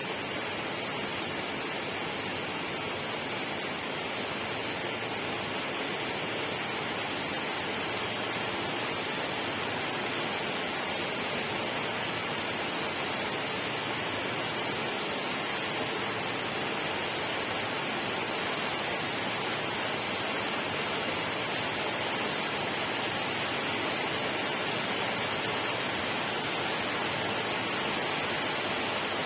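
Steady, unbroken rush of water noise, even in level, with no separate drips, splashes or other events.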